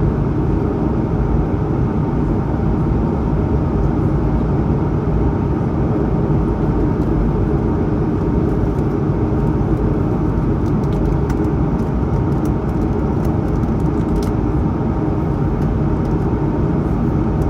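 Steady in-cabin noise of an Airbus A220-100 in the climb: the rush of air over the fuselage and the drone of its Pratt & Whitney PW1500G geared turbofans at climb power, with a few faint light ticks near the end.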